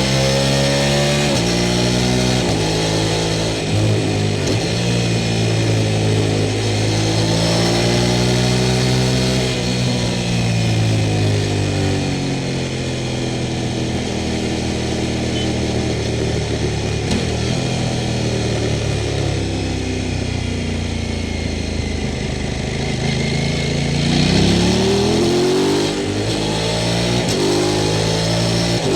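Sport motorcycle engine under way, the revs rising and falling with throttle and gear changes. They hold lower through the middle and climb sharply near the end.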